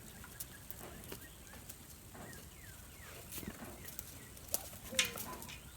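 Faint, short bird chirps with scattered small clicks and patters, and one brief falling call about five seconds in.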